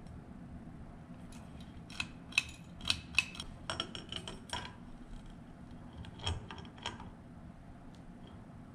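Small metal parts and tools being handled during ceiling fan reassembly: a run of sharp, light clicks and clinks about two seconds in, a few more near the end.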